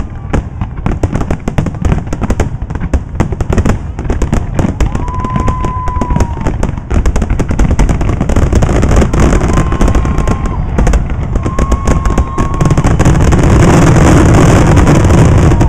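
Fireworks going off in a rapid, continuous barrage of bangs and crackles over a deep rumble, getting louder about thirteen seconds in.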